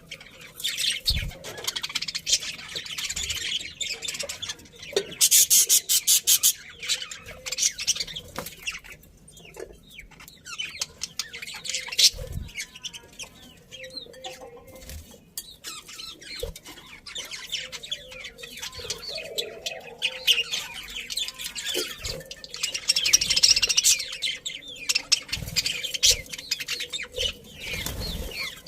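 A colony of budgerigars chirping and chattering continuously, in rapid high-pitched bursts, with a few soft thumps mixed in.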